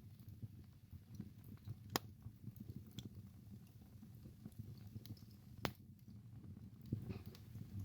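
Wood burning in a fireplace: a steady low rumble of the flames with scattered soft crackles and two sharp pops, one about two seconds in and one later on.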